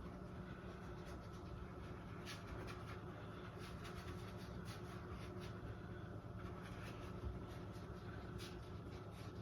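Faint soft brushing of a dry mop brush worked lightly in little circles over wet acrylic paint on canvas, in irregular strokes, over a steady low hum.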